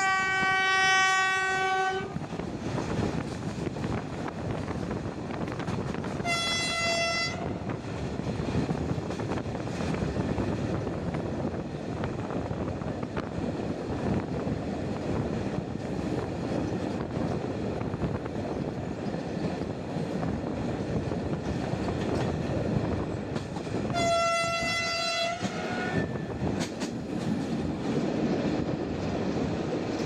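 Diesel-hauled passenger train running, heard from a carriage window: a steady rumble of the train rolling, with three locomotive horn blasts. The first, at the start, is lower-pitched and about two seconds long; the next two, about six seconds in and about twenty-four seconds in, are higher and shorter.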